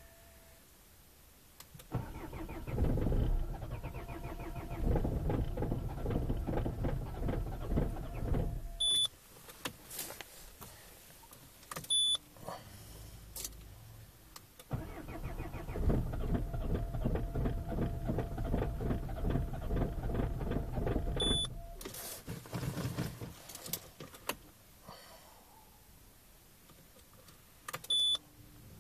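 Four-cylinder HDi diesel of a Citroën C5 being cranked by its starter in deep cold: two long cranking attempts of about six to seven seconds each, with a quick even chugging of compression strokes, each stopping abruptly without the engine catching. Short electronic beeps sound between the attempts.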